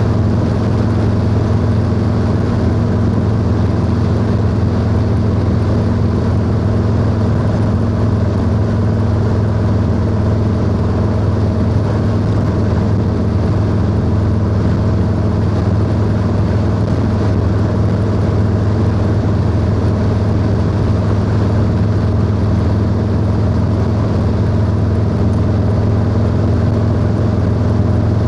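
Harley-Davidson Low Rider S (FXLRS) Milwaukee-Eight V-twin running at a steady cruising speed through a 2-into-1 exhaust, its pitch holding level with no shifts or revs.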